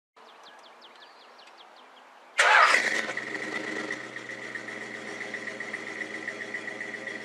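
A car engine cranking with a chirping starter for about two seconds, then catching with a loud burst and settling into a steady run.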